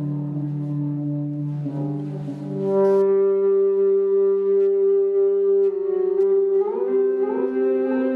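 Electric guitar (Eastwood Airline H44) bowed with an EBow through overdrive and delay, holding long sustained horn-like notes that overlap as the delay repeats them. It swells louder about three seconds in, and a few sliding notes enter near the end.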